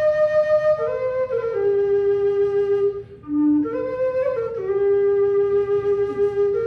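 Low whistle playing a slow air: long held notes moving step by step, with a brief dip in level and a short low note about three seconds in.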